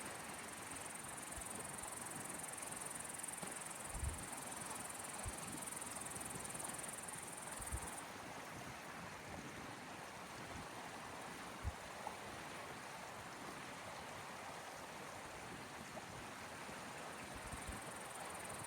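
Gentle sea waves washing on the shore, a steady soft hiss. A high, steady insect chirring stops about eight seconds in and comes back near the end. A few brief low thumps are heard.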